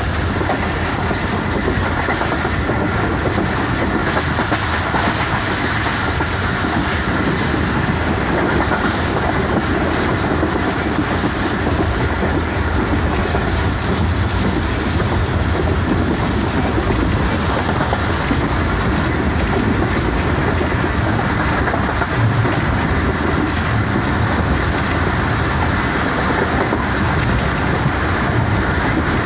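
Passenger train coach running along the track: a steady, continuous noise of wheels on the rails, heard from aboard the train.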